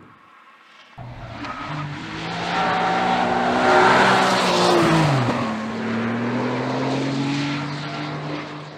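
Porsche 911 flat-six engine and exhaust under acceleration, cutting in suddenly about a second in and growing loud. Its pitch drops sharply about five seconds in, then climbs slowly again.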